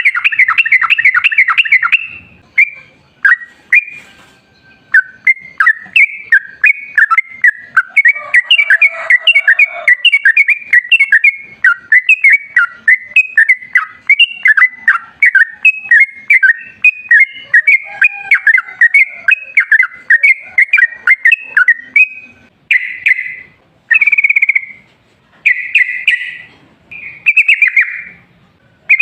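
Yellow-vented bulbul (trucukan) singing a fast, bubbly chattering song. A long unbroken run of rapid notes breaks into short separate phrases near the end.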